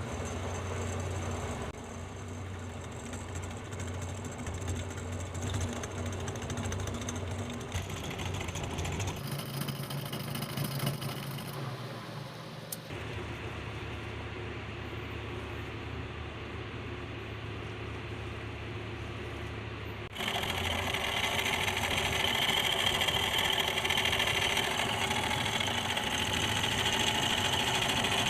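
Small electric motor running steadily with a low hum. Its note shifts a couple of times, and about two-thirds of the way through it gets louder with a harsher, rasping edge added.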